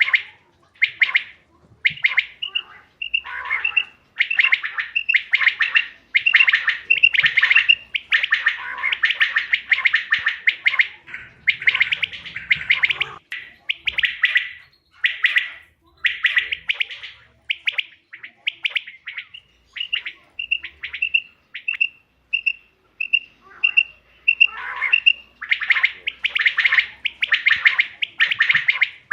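Quail calling repeatedly: loud bursts of rapid, buzzy chattering notes, broken by runs of short clear piping notes at about two a second, a brief one a few seconds in and a longer one past the middle.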